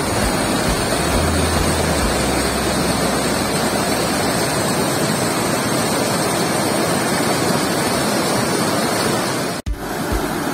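Waterfall in full, swollen flow: a loud, steady rush of falling water that cuts out for an instant near the end.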